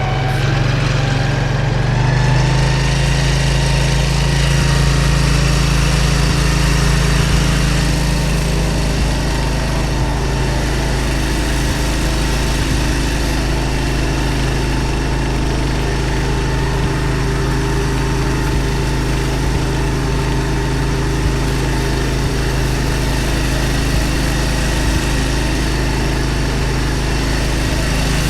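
Gas engine of a hydro jetter running steadily under load as it pumps water into the sewer line, its pitch rising a little in the first couple of seconds and then holding.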